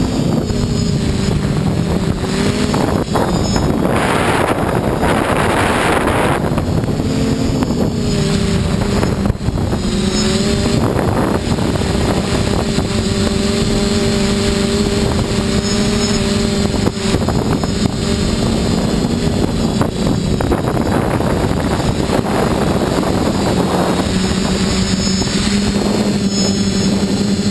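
TBS Discovery quadcopter's brushless motors and propellers buzzing in flight, a steady hum that steps up and down in pitch as the throttle changes, with several surges of rushing noise. The pilot is chasing a strange noise that this quad makes only at full throttle in the air, never on the ground.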